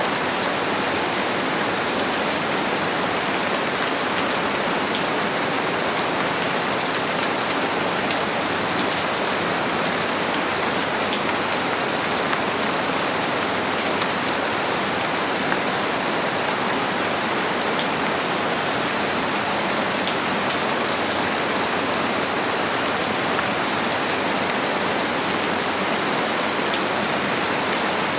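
Steady rain falling, a constant hiss of many drops with faint individual drop ticks.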